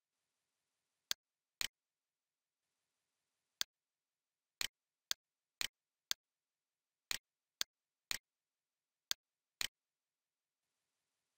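Computer mouse clicks: about a dozen short, sharp single clicks spaced unevenly, with dead silence between them.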